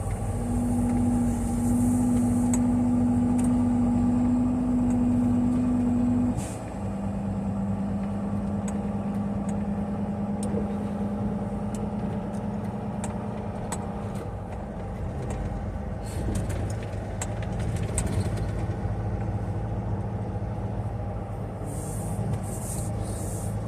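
Semi-truck diesel engine running while driving, heard from the cab: a steady engine hum whose note drops to a lower pitch, with a short dip in loudness, about six seconds in.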